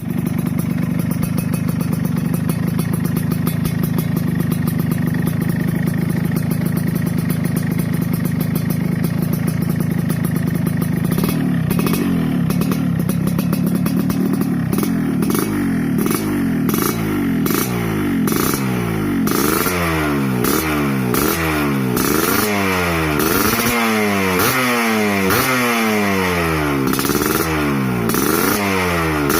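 Yamaha RX-King two-stroke single-cylinder motorcycle engine through an aftermarket lobster exhaust, idling steadily, then revved: from about eleven seconds in the revs rise and fall, becoming quick throttle blips about once a second.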